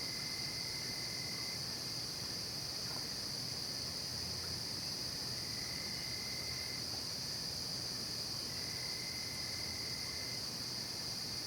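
Night insect chorus of crickets: a steady, high, shrill trilling, joined about every four seconds by a lower trill that lasts a second or two.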